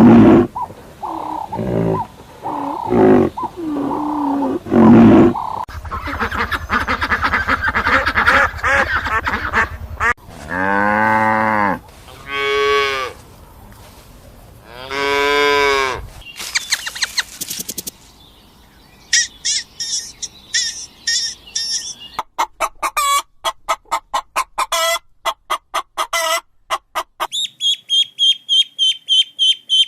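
A run of different farm-bird and animal calls, changing every few seconds: honking fowl calls for most of the first half, then high, rapid chirping and peeping near the end.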